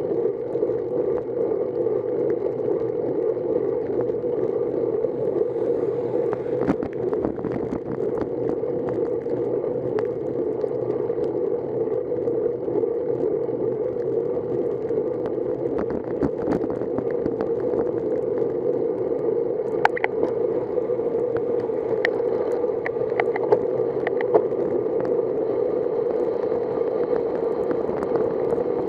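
Steady rushing ride noise from a bicycle on a wet road: tyre hiss and air rushing past the microphone, with a few short sharp clicks scattered through.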